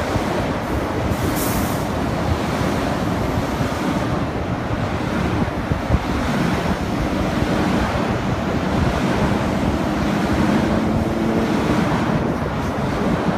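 Electric passenger train running along the track away from the listener: a steady rumble of wheels on rails, with a faint steady hum through the second half.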